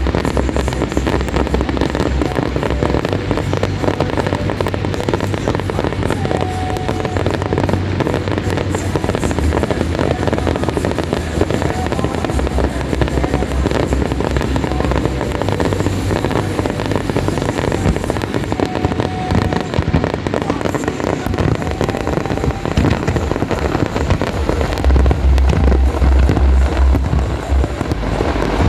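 Aerial fireworks display: a dense, continuous barrage of bursts and crackling, with music from loudspeakers underneath and heavier low booms near the end.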